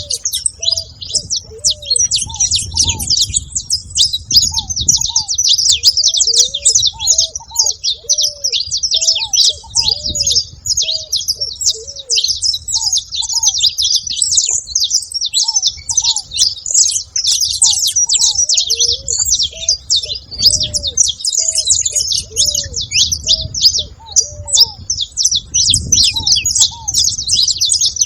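A group of saffron finches chirping and trilling together at a feeding spot, a dense, continuous high-pitched chatter of many overlapping calls. Lower short arched notes repeat throughout underneath.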